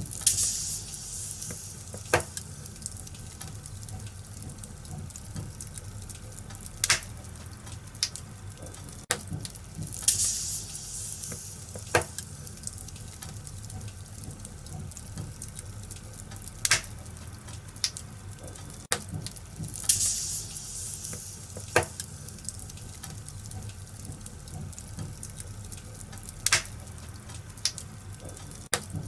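Wood fire in a fireplace crackling, with sharp pops every few seconds over a steady hiss and low rumble. Short surges of hissing come about every ten seconds.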